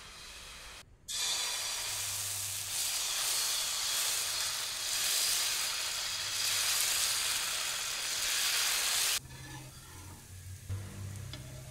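Corn rava dosa batter sizzling on a hot tawa as it is spread and cooks. The sizzle starts suddenly about a second in and cuts off sharply near the end.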